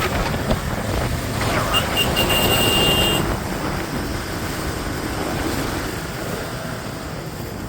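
Motorcycle ride through town traffic: steady wind rush and engine-and-road noise. Just under two seconds in a high-pitched vehicle horn gives two short toots and then holds for about a second.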